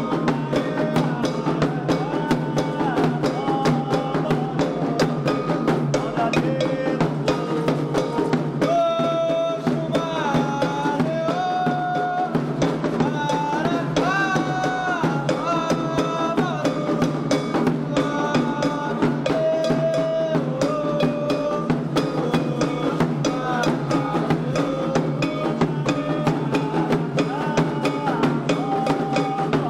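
Candomblé ritual drumming: dense, steady strokes on hand drums, with a sung melody of held notes that step up and down over it.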